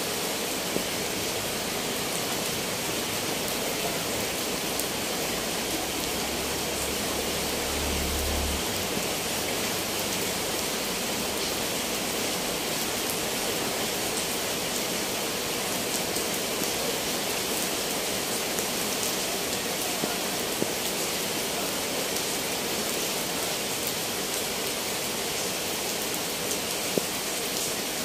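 Steady rain falling, with a few sharper drop taps here and there and a brief low rumble about six seconds in.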